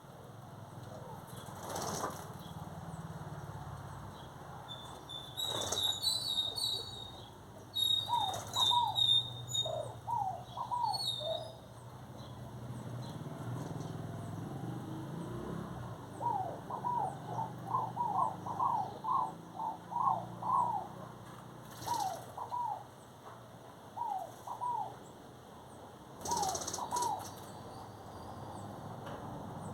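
Birds calling: many short rising whistled notes in quick runs, with higher chirps in the first third and a few brief rustling bursts.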